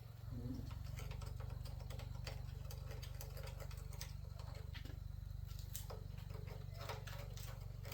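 Small engine running steadily, with a fast, even pulse and a light ticking clatter over it.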